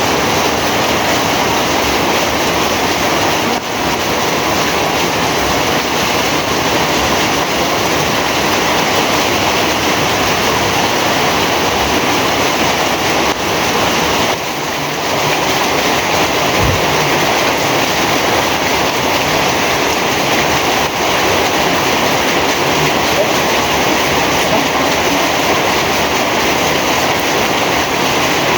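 Heavy rain falling, a loud, steady, dense hiss of downpour.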